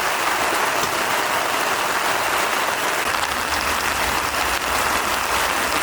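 Steady rain falling, an even dense hiss.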